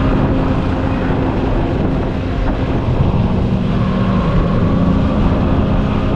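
Motorcycle engine running under way, with road and wind rumble. The engine note is steady, breaks off briefly about halfway, then picks up again.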